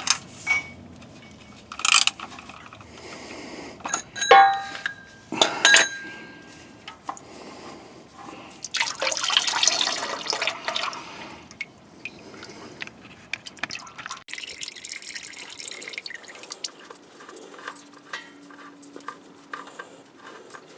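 An oil filter being worked off an engine: a few sharp metal clinks from the tool on the filter in the first six seconds. Then engine oil runs out and splashes into a catch pan, loudest for a couple of seconds about nine seconds in, and keeps dripping after that.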